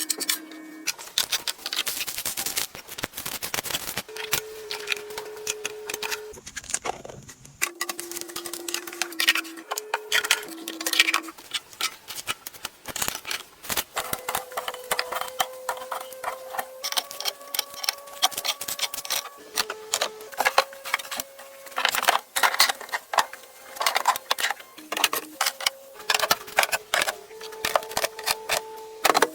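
Quick clicks, taps and clatters of plastic storage containers and lids being handled and set in place in a refrigerator, over soft background music with long held notes.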